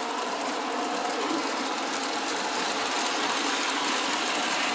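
O-gauge model passenger trains running on the layout's track: a steady whir of the locomotive motors and the rumble of wheels on three-rail track.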